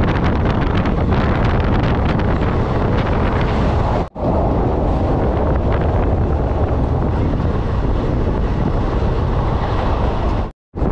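Wind buffeting the microphone over the steady running rumble of a passenger train at speed, heard from its open coach doorway. It drops out suddenly twice, briefly about four seconds in and again near the end.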